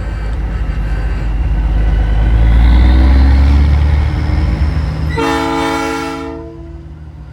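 Truck's diesel engine running loud under the cab, then one short blast of a Nathan Airchime P3 three-chime train horn about five seconds in, lasting just over a second.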